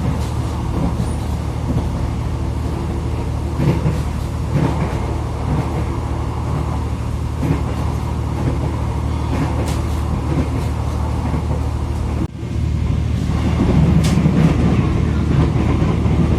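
Inside a moving passenger train: a steady low running hum and rumble, with a few light knocks and rattles.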